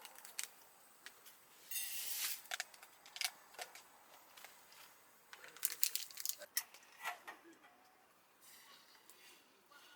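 Scattered sharp clicks and light knocks of things being handled, with a short rustle about two seconds in and a quick cluster of clicks around six seconds in.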